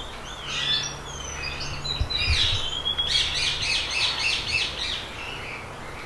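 Birds chirping and whistling in short gliding calls, with a fast run of repeated notes about three to five seconds in. A low steady hum sits underneath.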